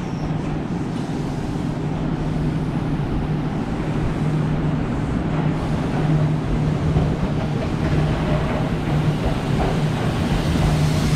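Electric commuter train at a station platform: a steady low hum with running noise, growing slightly louder and brighter toward the end.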